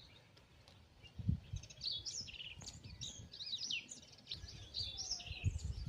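Several birds chirping and trilling in quick, overlapping calls, with low thuds, the loudest about a second in.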